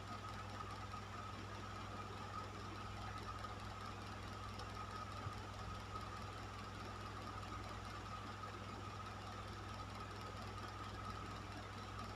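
Electric fan running steadily: a low motor hum and a faint steady whine over the rush of moving air.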